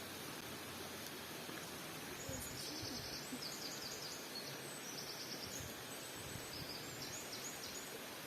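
A small bird calling in several short runs of rapid high chirps, starting a couple of seconds in and stopping near the end, over a steady background hiss.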